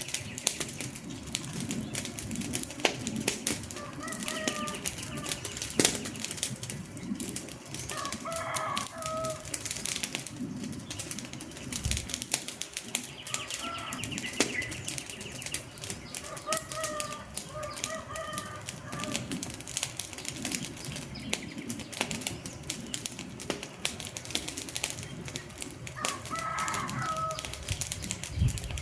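Wood fire crackling and popping steadily, with a low rumble of burning logs. Short chirping calls come through a handful of times.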